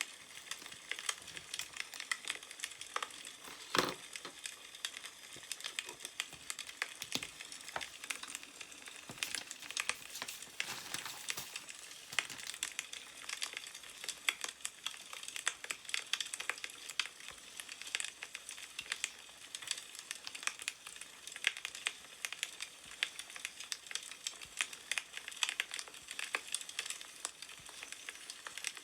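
Burning wood crackling with a steady scatter of small pops and snaps, with paper rustling as newspaper is handled; one sharper crack about four seconds in.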